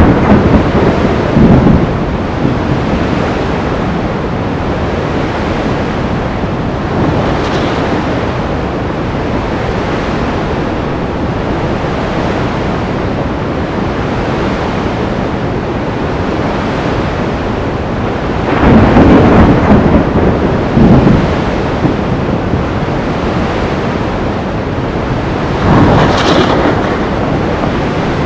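Sea storm: a steady roar of wind and surf, swelling into heavy surges of crashing water or rumbling at the start, about two-thirds of the way through, and again near the end.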